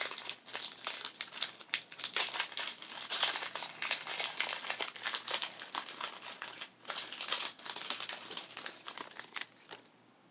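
Foil wrapper of a Pokémon trading card booster pack crinkling as it is torn open and handled, dying away near the end.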